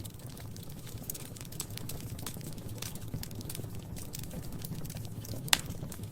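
Wood fire crackling in a fireplace: scattered small snaps over a steady low rumble, with one sharp, much louder pop about five and a half seconds in.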